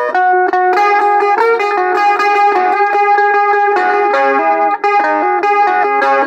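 Harmony electric mandolin playing a melody of plucked notes, some held and some changing quickly.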